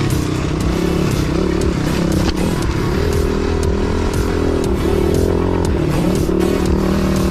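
Pit bike engine being ridden, its pitch rising and falling as the throttle is opened and eased off, with scattered sharp clicks and knocks from the bike over the rough trail.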